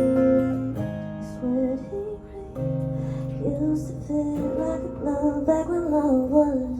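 Live acoustic guitar ringing out the song's closing chords. From about halfway, a woman's voice sings a wordless, wavering closing line over them.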